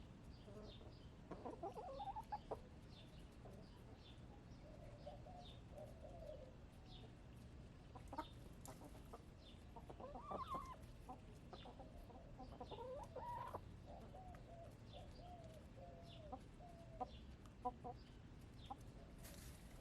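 Backyard hens clucking and making soft drawn-out calls, faint and off and on, with a small wild bird chirping repeatedly in the background.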